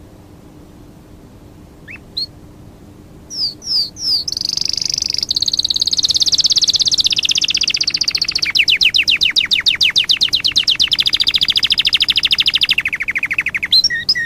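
A songbird singing: a few short rising chirps, then a long, fast, loud trill lasting about eight seconds, and a couple more chirps near the end.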